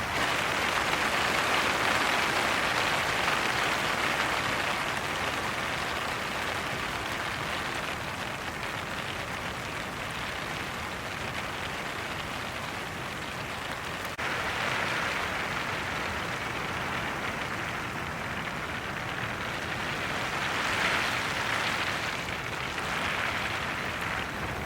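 Heavy rain falling steadily on a tent and tarp, a dense, even hiss of drops, with a sudden step up in loudness a little past halfway.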